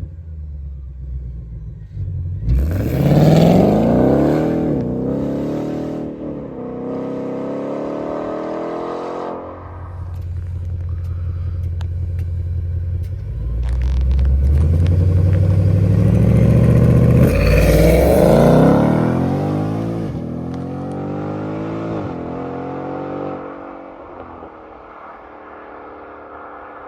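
Ford Mustang GT's 5.0-litre V8 running with two loud surges. The pitch climbs steeply about two seconds in. It climbs again to its loudest point about seventeen seconds in, then falls back, and the engine settles to a quieter steady running near the end.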